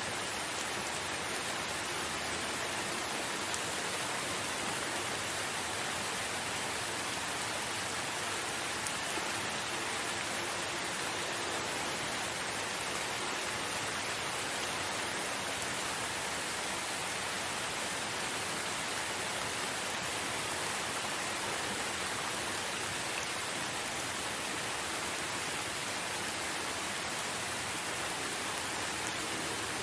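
Steady rain falling in a forest, an even unbroken hiss of drops.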